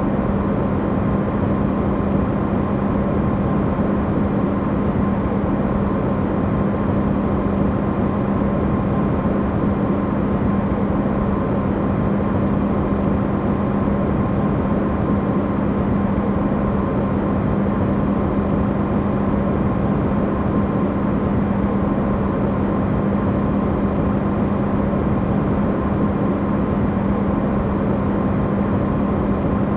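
Electrolux refrigerator running, recorded amplified: a steady hum under an even rushing noise, with a fainter higher tone above it.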